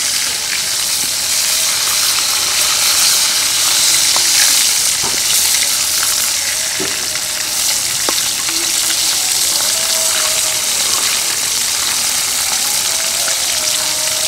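Arum-leaf-wrapped fish parcels frying in hot oil in a metal karahi, a steady dense sizzle, with a few faint taps of a metal spatula against the pan.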